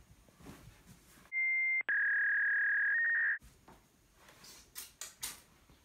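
Censor bleep: a steady electronic beep tone dubbed over a swear word, about two seconds long, starting just over a second in. It breaks briefly near its start and carries on at a slightly lower pitch, and the room sound drops out entirely beneath it.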